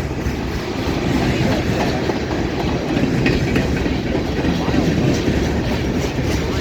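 Freight train cars rolling over a railroad diamond crossing, the wheels clacking across the gaps in the crossing rails over a steady rumble.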